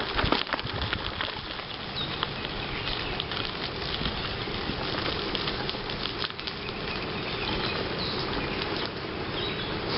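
Bicycle rolling along a canal towpath: a steady rushing noise with constant small crackles and rattles from the tyres and bike over the path surface.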